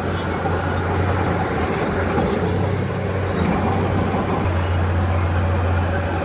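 Komatsu D31P bulldozer's diesel engine running steadily under load, with a constant deep hum.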